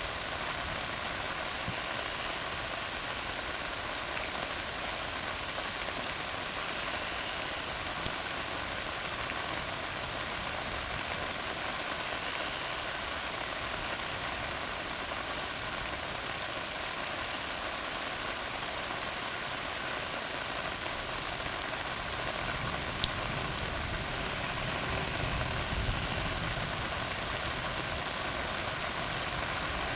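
Steady rain falling on a tar road, an even hiss with a few sharper drop ticks. A faint low rumble swells briefly about 25 seconds in.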